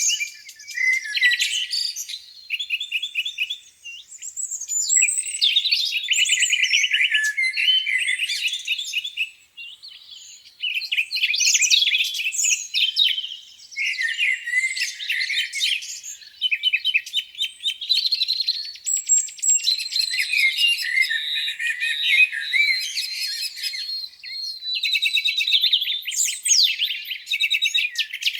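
Several songbirds singing at once: a dense chorus of overlapping trills, rapid repeated notes and chirps, with a short lull about ten seconds in.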